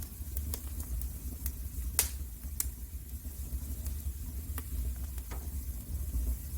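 Wood fire crackling in a fireplace: scattered sharp pops, the loudest about two seconds in, over a steady low rumble.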